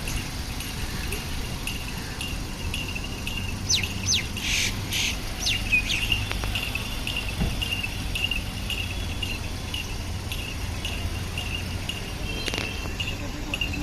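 Birds chirping repeatedly, with a few short falling calls, over a steady low background rumble.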